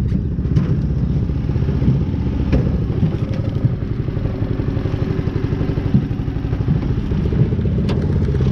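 Jon boat's motor running steadily at low speed, moving the boat, with a few sharp knocks.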